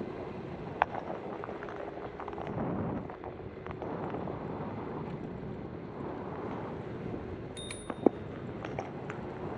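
Riding a Bird electric scooter: steady wind rush on the microphone and rolling noise, with a faint steady hum from the scooter. There is a sharp click about a second in and another near the end, with a brief high tone just before the second.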